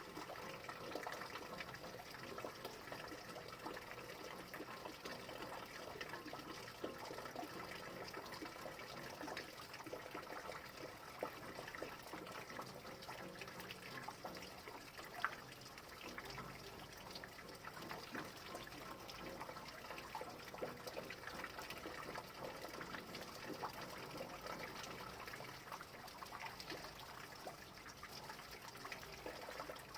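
Steady rain, with water trickling and many small drips falling.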